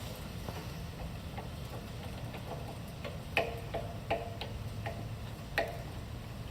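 A vertical milling machine's table saddle being cranked toward the front by hand along its ways: irregular light metallic clicks and clinks from the handwheel and slides, with a few louder clinks in the middle and later part.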